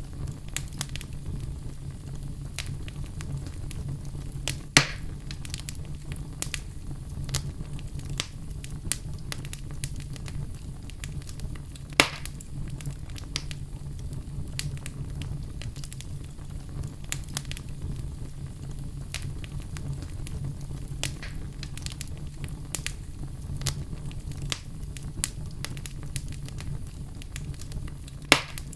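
Wood fire burning in a fireplace, crackling with a steady scatter of small snaps over a low rumble. Three louder pops stand out: about five seconds in, about twelve seconds in, and near the end.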